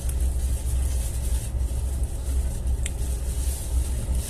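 Passenger train running, a steady low rumble with a hiss, heard from inside the coach. A brief high squeak about three seconds in.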